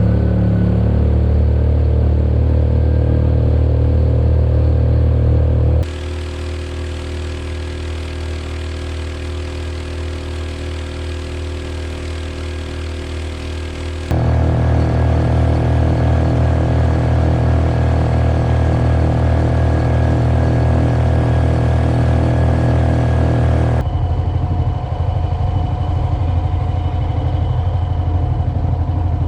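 Small engine of a Mokai jet-propelled kayak running steadily. The sound changes abruptly three times, with a quieter stretch between about 6 and 14 seconds in.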